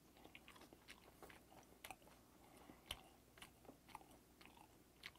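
Faint close-miked chewing of steamed ray flesh, a mouthful with small irregular crunches and clicks as the soft cartilage bones break down.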